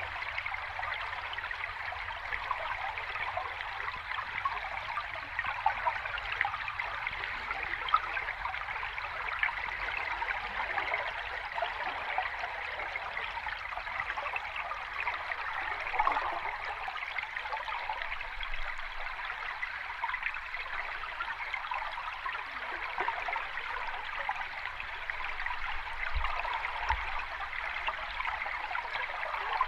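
Flowing water of a stream or small cascade, a steady rushing and splashing with no let-up.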